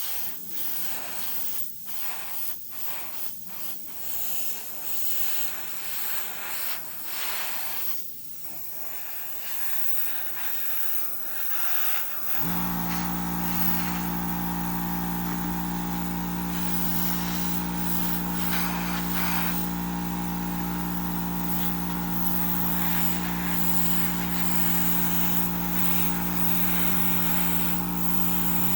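Airbrush spraying paint in hissing spurts with short pauses. About twelve seconds in, a small air compressor motor starts suddenly and runs with a steady hum.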